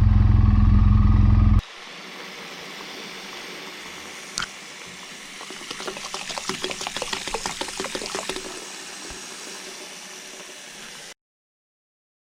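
BMW R 1200 GS boxer-twin motorcycle engine running steadily, then cut off abruptly after about a second and a half. A quieter steady hiss follows, with a single sharp click and then a quick spell of rattling clicks midway.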